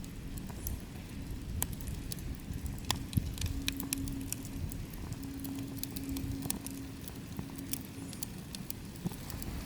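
Wood campfire crackling, with scattered sharp pops and ticks over a low rumble. A faint low steady tone runs through the middle.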